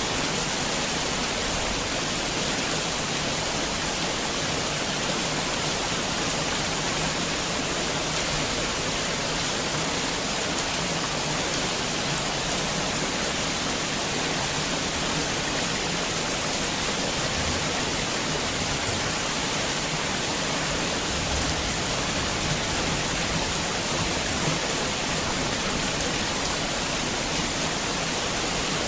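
Heavy rain falling as a steady, even hiss with no thunder.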